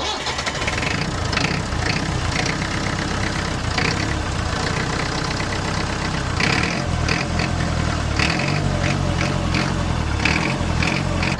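Lansing Bagnall forklift's Perkins 4.203 four-cylinder diesel engine starting at once and running, with repeated short knocks, then revved harder in the second half.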